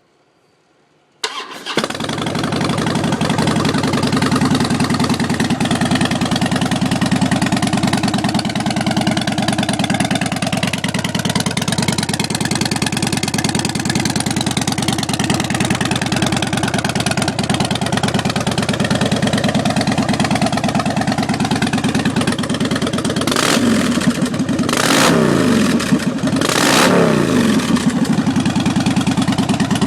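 2009 Harley-Davidson Dyna Low Rider's Twin Cam 96 V-twin starting about a second in and settling into a steady idle through a Rinehart Racing exhaust, then revved with three quick throttle blips near the end.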